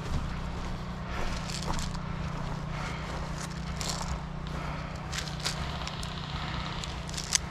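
Footsteps and rustling through brush, with scattered short clicks and scrapes and one sharper click near the end, over a steady low hum.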